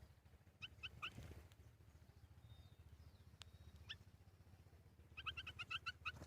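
A bird calling in short chirps: three about half a second to a second in, a single one near four seconds, then a quick run of about eight near the end, over a faint steady low rumble.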